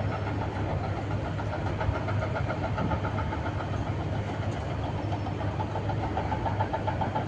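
A vehicle running steadily: a low hum with a faint pulsing whine above it.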